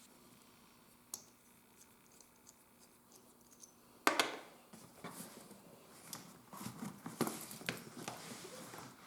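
Leather and hand tools being worked at a bench: quiet at first with a single tick, then a sudden knock about four seconds in and an irregular run of scratching, scraping and clicking.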